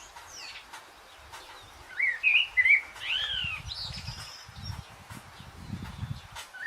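Birds chirping: a quick run of short, up-and-down chirps about two seconds in, then fainter calls, over a low rumble toward the end.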